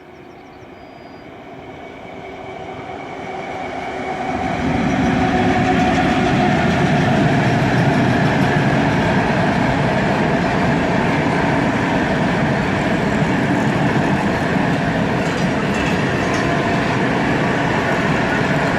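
Freight train approaching and then passing close by: the rumble grows louder over the first five seconds, then the wagons roll past on the rails in a steady, loud din.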